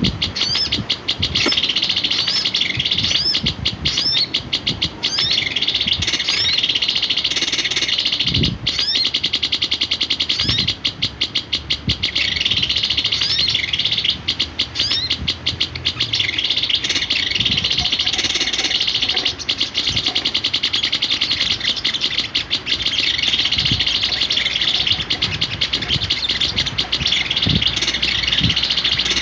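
A small songbird chirping and twittering continuously: rapid strings of short, high notes with many quick upward-sweeping chirps, running without pause.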